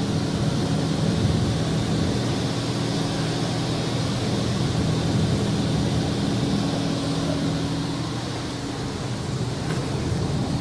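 Automatic car wash working over the car, heard from inside the cabin: a steady hiss of spray on the body and glass over the low, even hum of the wash machinery.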